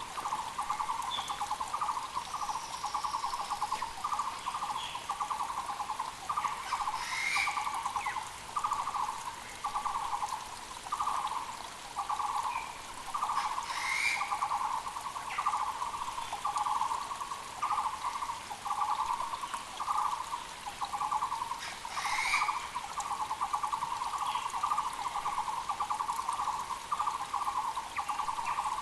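Muller's barbet calling on and on, a rapid run of low pulsed notes repeated in short phrases about once a second. Another bird gives a short higher call three times over it, and a mountain creek runs underneath.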